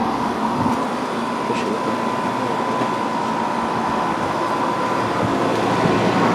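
Trane XR16 3-ton central air conditioner condensing unit running, its compressor and condenser fan giving a steady whooshing hum with a thin high whine that fades out about five seconds in.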